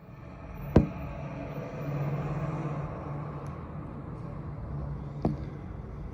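Fire truck's diesel engine running with a low steady hum that swells louder and then eases, as a truck moving nearby would. Two sharp clacks come through, one about a second in and one near the end.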